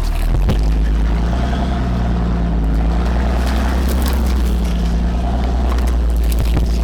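Ram 5500 wrecker's Cummins diesel engine running steadily at low speed, a constant low drone.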